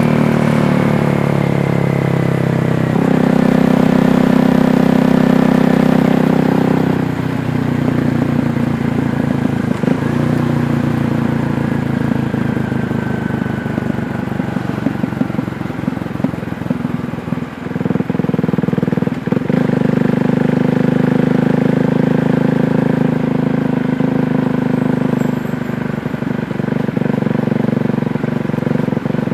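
KTM 390 Duke's single-cylinder engine running under way. Its pitch falls over the first few seconds, then it holds steady, drops back about seven seconds in, and pulls steadily again from about eighteen seconds.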